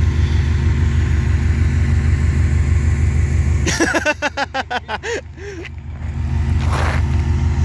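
2005 Subaru Legacy 2.5GT's turbocharged flat-four running through a catless downpipe and Invidia cat-back exhaust, with a loud, steady low rumble. About four seconds in, the rumble drops for roughly two seconds into a rapid fluttering stutter, then comes back steady.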